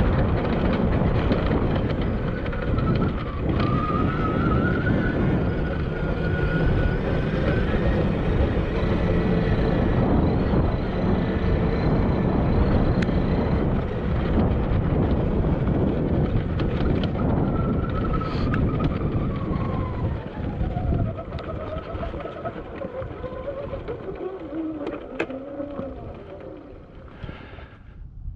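Heavy wind rumble on a GoPro microphone with no foam cover, over the thin whine of the Admitjet Armor electric dirt bike's motor, rising and falling in pitch with speed. About 20 s in the wind eases and the motor whine falls steadily in pitch as the bike slows.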